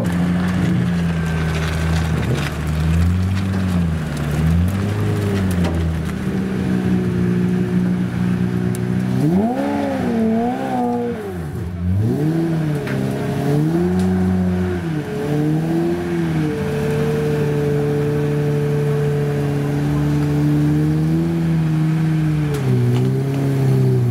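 Pagani Zonda Oliver's Mercedes-AMG V12 idling while it is manoeuvred onto a transporter ramp, with a run of short throttle blips in the middle, each revving up and dropping back, then holding a slightly raised, steady idle.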